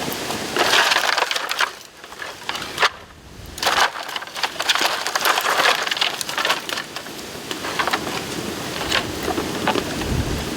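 Dry bamboo and bamboo branches crackling and snapping in a dense run of sharp cracks, with a short lull about two seconds in.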